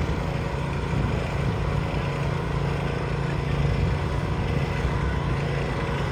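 Garden tractor engine running steadily, a low, even drone.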